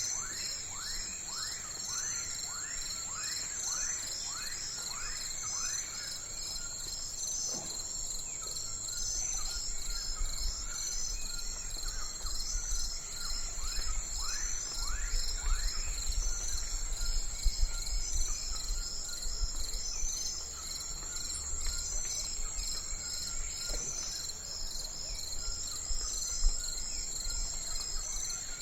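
Crickets and other insects trilling steadily and high, with a bird singing runs of quick falling whistled notes, about two a second. A low rumble comes in about nine seconds in.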